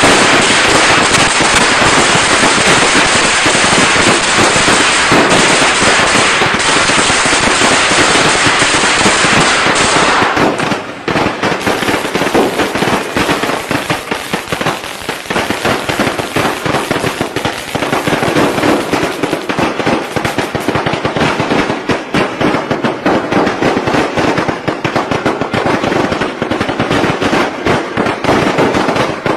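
Strings of traditional Vietnamese firecrackers going off in a continuous rapid crackle of sharp bangs. About a third of the way in the sound changes suddenly to a slightly quieter, less dense run of pops.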